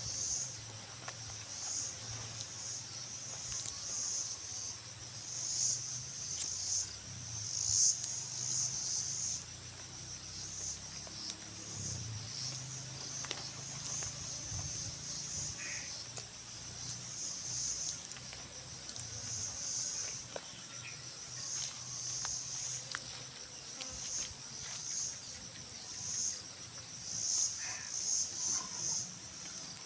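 Insect chorus: a steady high-pitched drone with a pulsing trill just below it that swells and fades every few seconds.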